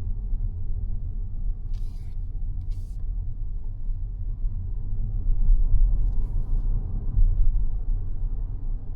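Steady low road and tyre rumble of a Mazda 6e electric sedan on the move, with three brief hisses about two, three and six seconds in.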